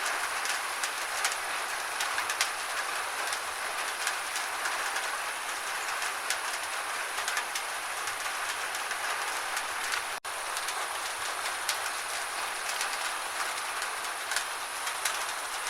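Steady gentle rain, a constant hiss with many small drops ticking through it. The sound cuts out for an instant about ten seconds in.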